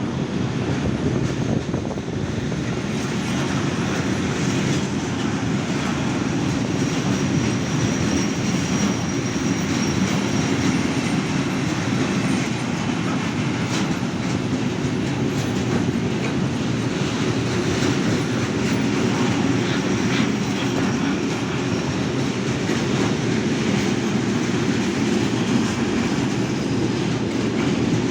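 Train running past on the rails: a steady rumble of wheels on track that holds for the whole stretch, with a faint high-pitched wheel squeal about five to nine seconds in.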